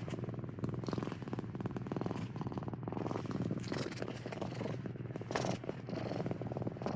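Domestic cat purring: a steady, rapid, pulsing rumble that comes in alternating stretches of about a second each.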